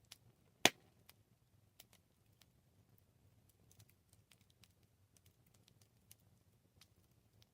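Wood fire crackling: scattered small crackles and snaps, with one loud pop under a second in, over a faint low rumble.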